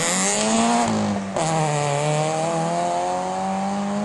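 Rally car engines accelerating hard at high revs, the pitch climbing. About a second in, the note breaks off sharply and starts again lower, then climbs steadily.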